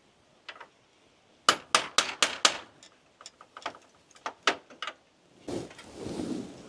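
Sharp taps and clicks of hard parts being handled and knocked together: a quick run of about five loud taps about a second and a half in, then scattered lighter clicks. A softer rustling noise follows near the end.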